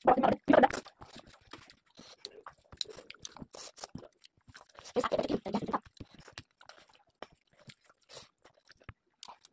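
Close-miked eating sounds of rice, dal, chicken and greens eaten by hand: chewing, lip smacks and many small wet mouth clicks. There are louder clusters right at the start and again about five seconds in.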